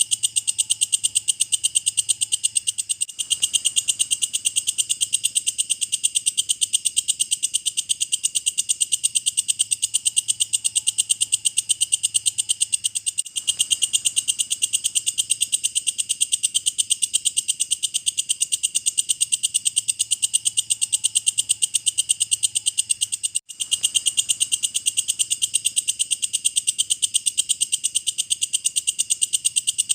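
Walang kecek (belalang kecek) insect singing: a continuous, rapid, even train of high, shrill chirping pulses, briefly breaking about every ten seconds.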